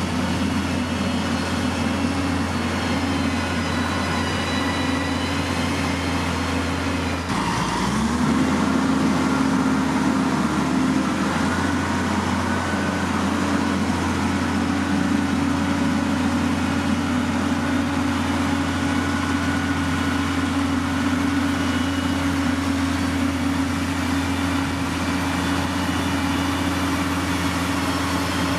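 Heavy diesel engine of construction machinery running steadily. About seven seconds in the sound breaks abruptly, then the engine pitch rises and it runs a little louder.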